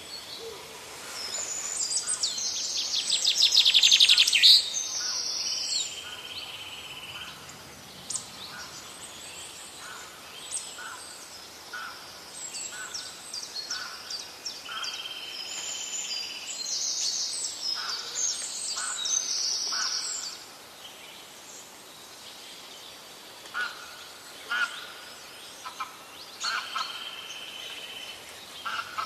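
Birdsong from several birds: chirps, whistled phrases and rapid trills, with a loud, fast trill about three to four seconds in.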